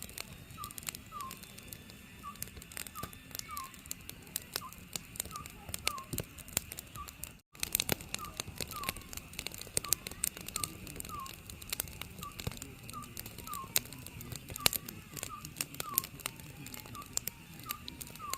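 Oriental scops owl calling, a short two-note hoot repeated about once a second, over a wood fire crackling and popping.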